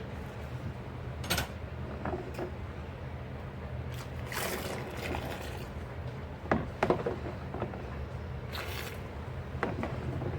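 Dishes being hand-washed in a sink: scattered clinks and knocks of crockery, with two short splashy rushes of water, over a steady low hum.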